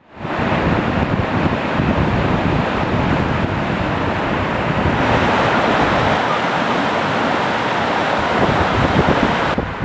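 Lake Superior surf washing steadily onto the beach, with strong wind buffeting the microphone as a gusty low rumble. It starts abruptly, and near the end the surf hiss drops back while the wind buffeting carries on.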